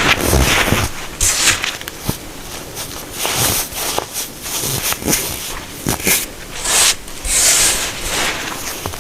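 Compressed baking soda crunching and crumbling, a string of irregular crisp crunches and crackles with a few sharper snaps.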